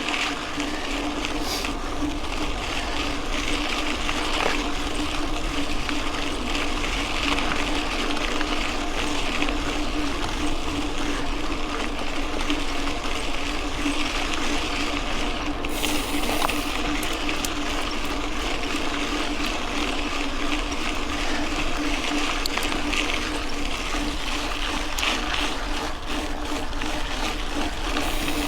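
Mountain bike rolling along a dirt road: steady tyre-on-gravel and wind noise with small rattles and a constant hum.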